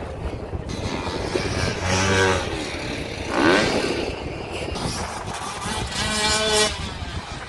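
Motocross dirt bike engines revving several times, one climbing sharply in pitch as the throttle opens, over a steady low rumble of wind on the microphone.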